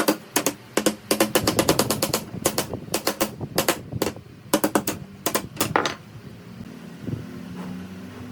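A rapid, irregular run of sharp knocks or taps, several a second, that stops about six seconds in, leaving a faint steady hum.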